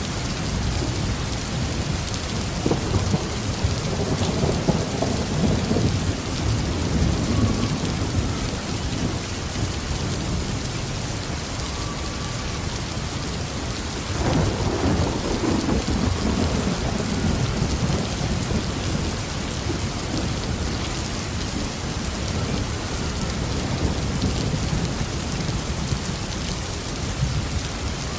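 Heavy rain falling steadily on a roof, with rolling thunder: one long rumble builds a few seconds in, and a second, sharper peal breaks about halfway through and rolls away.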